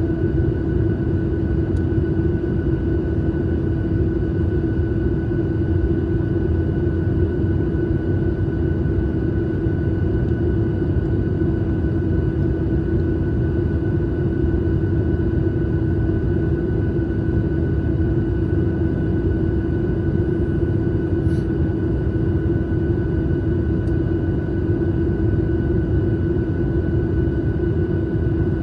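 Steady airliner cabin noise: an even engine drone and rushing air, with a constant hum running through it.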